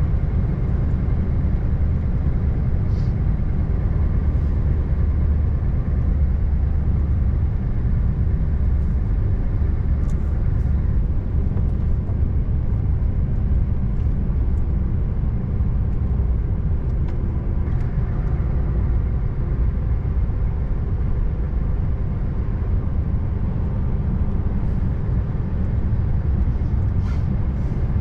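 Scania R590 truck's V8 diesel running steadily while driving, a deep even rumble with road noise.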